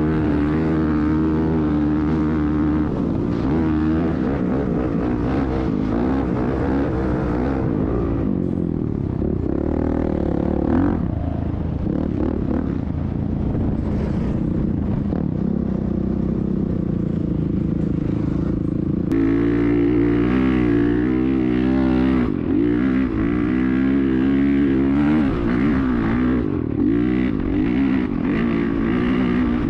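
Off-road motorcycle-type engine running and revving up and down, steady throughout. It changes abruptly about two-thirds of the way through to a stronger, differently pitched engine sound.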